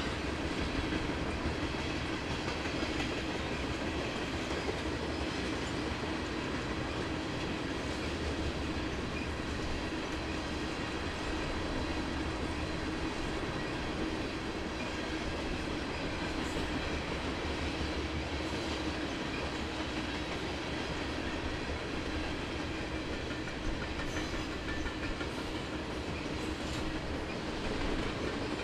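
A train running on the rails: a steady, continuous rumble of wheels and cars rolling.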